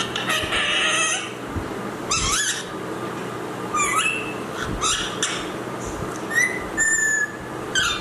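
A parrot calling: a string of about six short calls and whistles, several sliding up in pitch, with a clear whistled note near the end.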